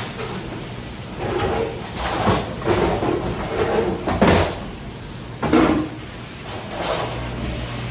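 A series of sliding, scraping and knocking sounds, about five in a row, over a steady low hum; the loudest come in the middle.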